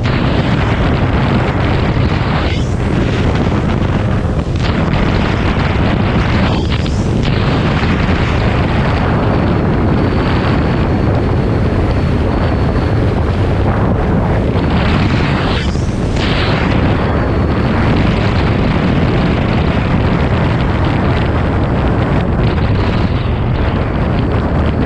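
Supercharged V8 drift car, a Toyota Soarer, running hard and loud under heavy wind buffeting on the microphone, the sound dipping briefly several times.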